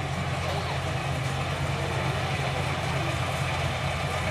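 A machine's engine running steadily with a constant low hum.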